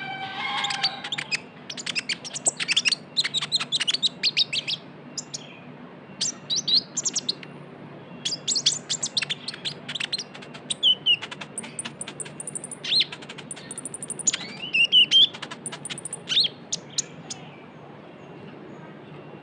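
Sunbird (the 'kolibri ninja' or konin) singing a fast chattering song of sharp high chirps and trills, delivered in bursts with short pauses between them, over a faint low steady hum.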